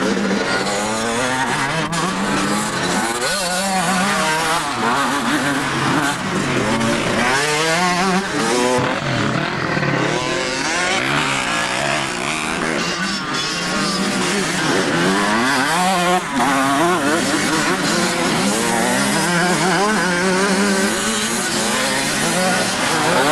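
Several off-road motocross bikes' engines revving, overlapping one another. Each engine's pitch keeps rising and falling as the bikes accelerate, shift and back off.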